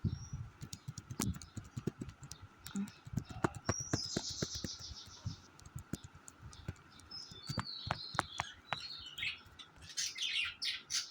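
Pet budgerigars chirping and chattering, with a fast warbled burst about four seconds in and a run of short chirps later, over many sharp clicks and taps.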